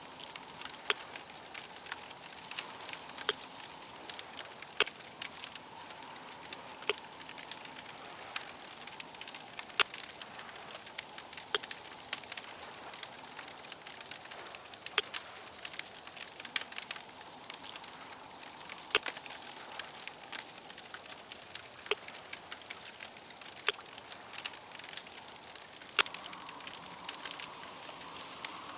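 Fire crackling steadily, with frequent sharp, irregular pops over a soft hiss.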